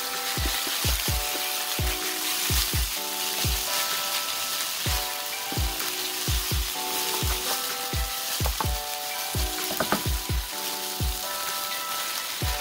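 Beef strips sizzling in a frying pan as they are stirred with a wooden spatula, with background music with a steady drum beat.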